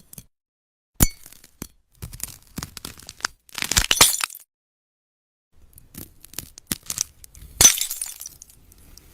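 Brittle glass-like fruit being sliced, giving sharp glassy cracks, clinks and crackling crunches. A single crack comes about a second in, then a run of small crackles. There are two longer bursts of crackling, one around four seconds in and the loudest near the end.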